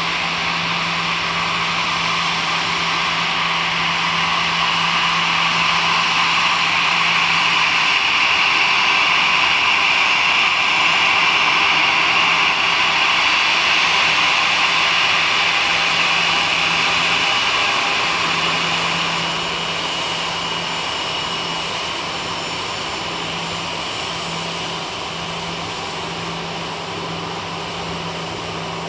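Jet engines of an Airbus A340-211, a four-engine CFM56-powered airliner, running with a steady rush and high whine. The sound grows louder toward the middle and fades over the last third.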